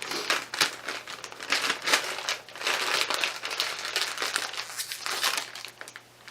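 Doritos 3D chip bag crinkling loudly and irregularly as it is handled and opened, easing off about a second before the end.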